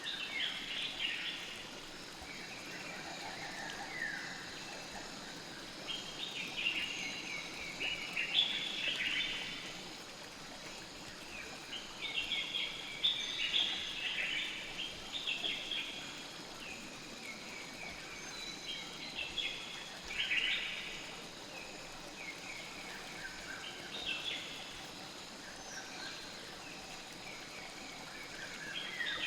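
Nature ambience: clusters of short bird chirps every few seconds over a steady hiss of flowing river water.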